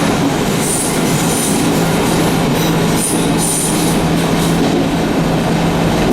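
Echizen Railway train running along the Katsuyama-Eiheiji Line: a loud, steady rolling rumble with a constant low hum, and short high squeals from the wheels that come and go several times.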